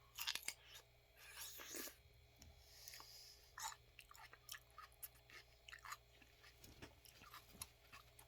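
Someone chewing celery: irregular crunchy bites and chews, the loudest in the first two seconds, then quieter scattered crunches.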